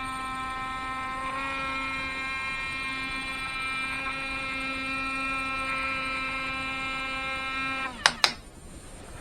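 Small electric motor on a Huina 1580 RC excavator, whining steadily as it drives. It shifts pitch slightly just over a second in and stops about 8 s in, followed by a couple of sharp clicks.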